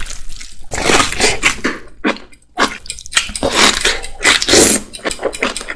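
Close-miked eating of whole-leaf napa cabbage kimchi: biting and tearing into the leaves and wet chewing, in quick irregular bursts with a short lull a little after two seconds.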